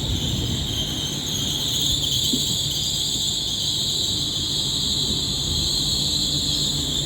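Train at a station platform with a steady, high-pitched metallic squeal from its running gear, two high tones held throughout over a low rumble.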